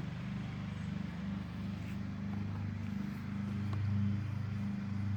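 A steady low mechanical drone, swelling a little partway through, with a few faint ticks over it.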